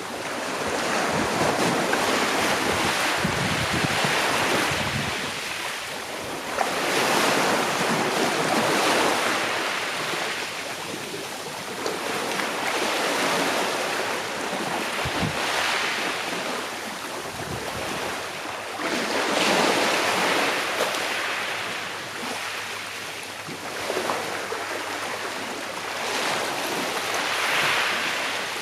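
Gentle sea waves breaking and washing onto a shore, each wash swelling and fading away about every five to six seconds.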